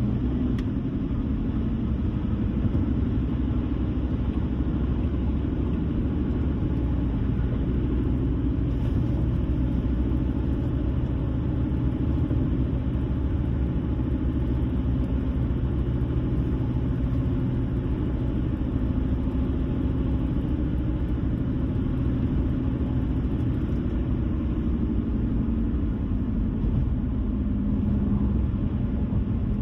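A car driving steadily on the road: a constant low rumble of tyres and engine with no sudden events.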